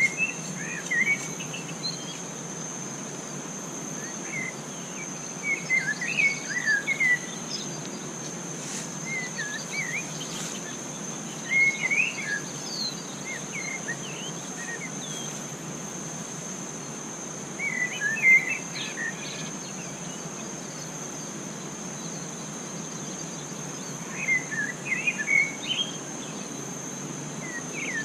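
Forest ambience: a steady high-pitched insect drone, with short bursts of chirping bird calls about every six seconds.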